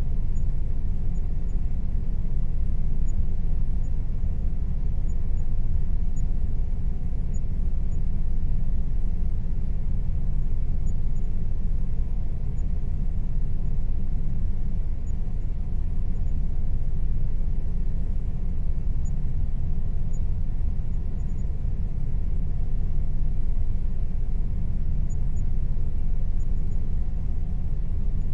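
Air conditioner running steadily: a constant low rumble with a faint even hum above it.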